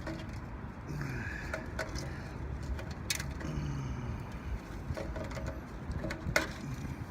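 Scattered clicks and knocks from handling, the sharpest about three seconds in and about six seconds in, over steady background noise.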